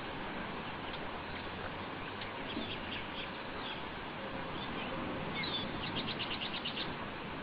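Small birds chirping over a steady background hiss: scattered calls a few seconds in, then a fast run of about ten chirps near the end.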